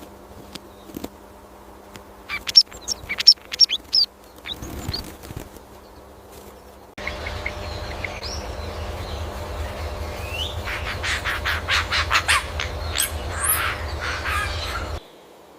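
Birds calling: a string of short, sharp, high chirps, then, after a cut, a louder stretch of rapid calls over a steady hiss that stops abruptly.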